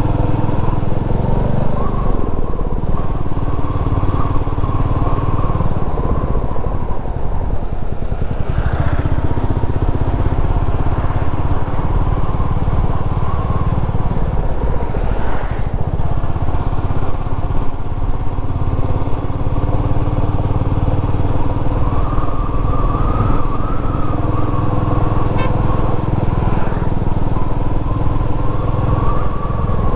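Royal Enfield Meteor 350's single-cylinder engine running under way on the road, its note steady for stretches and shifting briefly a few times as the throttle eases and picks up again.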